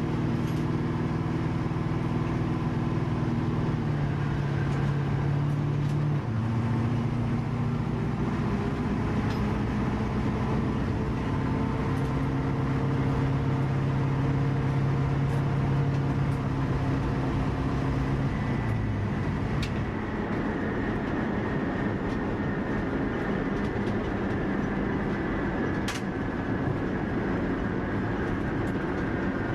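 1965 Mustang's 351 Windsor V8 with full exhaust running at low, steady engine speed, its pitch stepping down a few times and turning to a rougher, lower rumble past the halfway mark.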